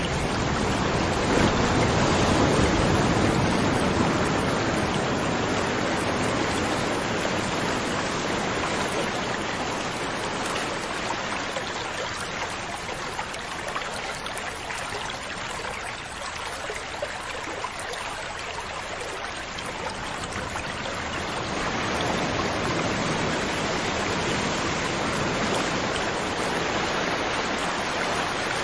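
Rushing water, an even hiss without distinct splashes, swelling and easing slowly: loudest in the first few seconds, softer in the middle, and rising again about three quarters of the way through.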